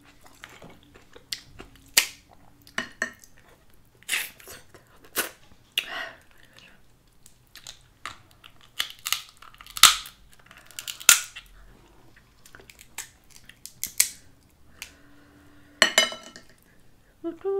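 Close-miked eating of Dungeness crab in butter sauce: wet chewing and lip smacks, with sharp clicks scattered irregularly through.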